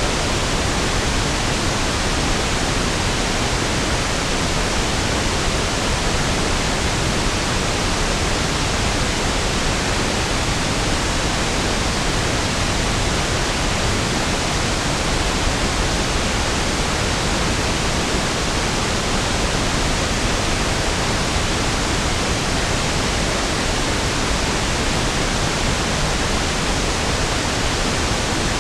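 Steady pink noise (1/f noise): an even, unchanging hiss with equal energy per octave, deeper and smoother than white noise.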